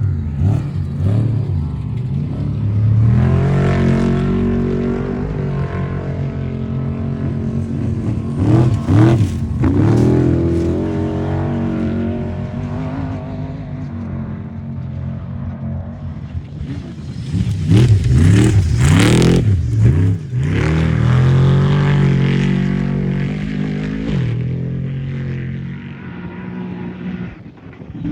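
Off-road race vehicles' engines revving hard and passing one after another, the engine note rising and falling several times. The loudest swells come a few seconds in, around ten seconds in, and again past the middle.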